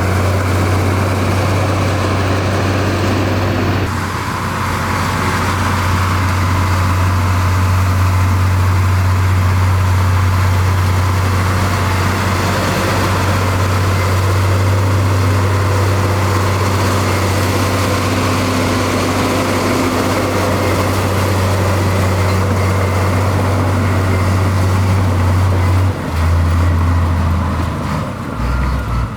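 Heavy diesel construction machinery running with a steady, loud low drone that shifts and becomes uneven about three seconds before the end.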